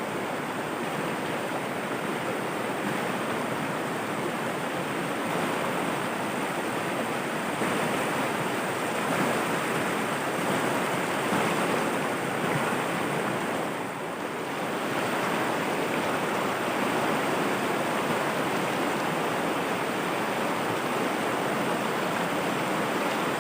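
Flowing water rushing steadily over a river rapid, dipping briefly about fourteen seconds in.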